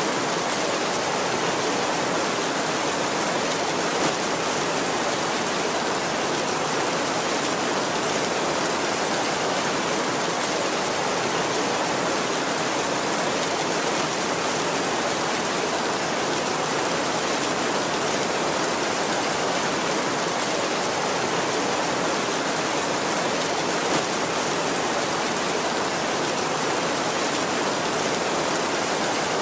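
Heavy rain drumming on a tin roof: a steady, dense hiss with no thunder, and two brief slightly louder taps, about four seconds in and again near the end.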